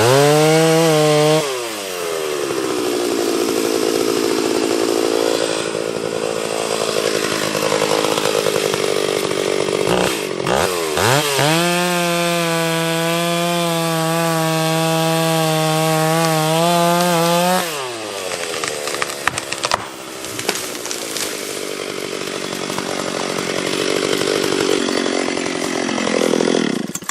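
Two-stroke chainsaw felling a large tree. The engine revs at full throttle in two steady high stretches, near the start and from about eleven to seventeen seconds in, and drops and wavers in pitch while it bogs under load in the wood. It shuts off at the end.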